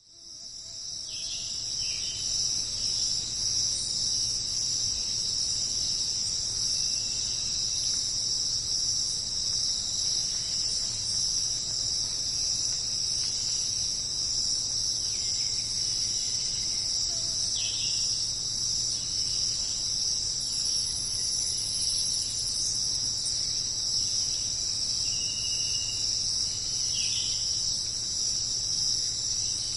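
Amazon rainforest insect chorus: a dense, steady, high-pitched shrill that fades in over the first couple of seconds. A few short calls that fall in pitch sound over it now and then, with a low steady hum underneath.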